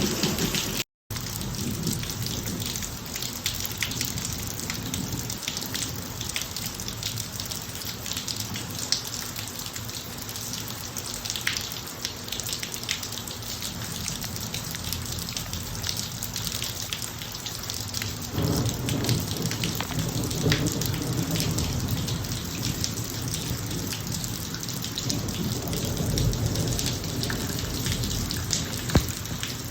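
Steady rain falling on a driveway, with many separate drop hits. A low rumble of thunder comes up about two-thirds of the way through and carries on. The sound cuts out completely for an instant about a second in.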